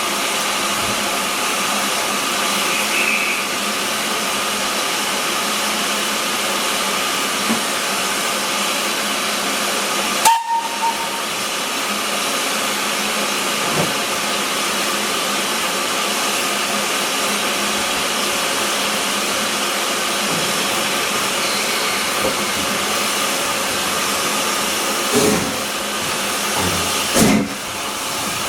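Steam hissing steadily from the LSWR S15 4-6-0 steam locomotive. Near the end come a few slow, separate exhaust beats, about two seconds apart.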